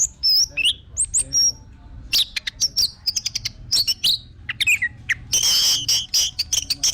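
Orange-headed thrush (anis merah) singing a fast, varied song of high whistled slurs and rapid chirps, with a harsh buzzy note held for about a second near the end.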